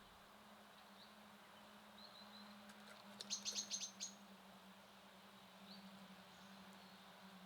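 A small songbird gives a quick run of about seven high notes about three seconds in, with a few faint single chirps before and after. A faint steady low hum lies underneath.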